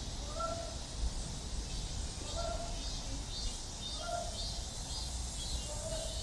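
Outdoor summer ambience: a high, pulsing insect drone typical of cicadas, with a short call repeated about every two seconds over a low rumble.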